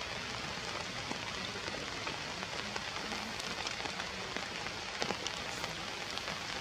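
Steady rain falling, with scattered individual drops ticking on a hard surface.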